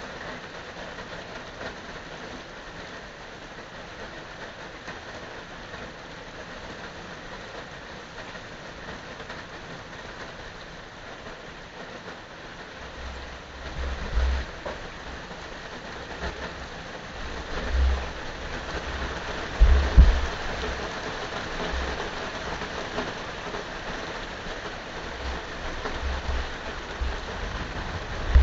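Steady rain hiss from a thunderstorm, joined about halfway through by short, gusty low rumbles, the loudest a little past the two-thirds mark.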